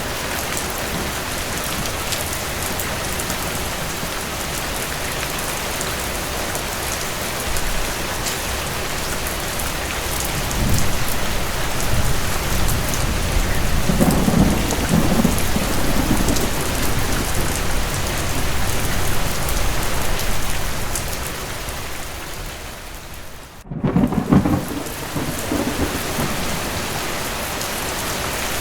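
Steady rain with rolling thunder: low rumbles swell about ten seconds in and again around fourteen seconds. Near the end the rain briefly drops out, then a louder thunderclap rumbles in.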